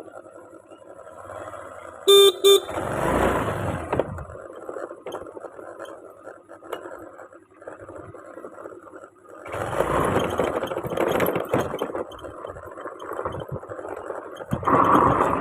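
Two short vehicle horn beeps about two seconds in, over swelling rushes of wind and road noise while riding.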